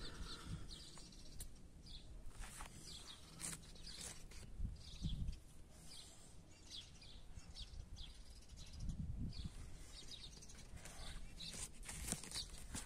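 Faint outdoor ambience with small birds chirping in short repeated calls, a few low rumbles, and a couple of sharp clicks near the end.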